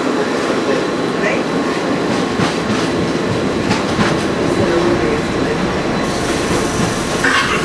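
Panama Railroad passenger train running along the track: a steady rumble of wheels on rails with scattered clicks. A short, high wheel squeal comes near the end.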